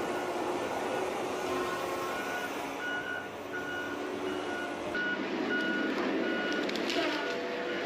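A heavy forestry machine's reversing alarm beeping steadily, about three beeps every two seconds, over the machine's engine noise. The beeping starts about three seconds in.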